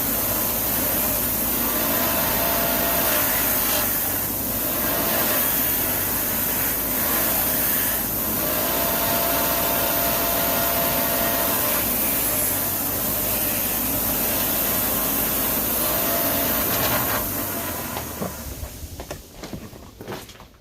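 A power tool's motor running with a steady hiss, its tone shifting every few seconds, then winding down near the end.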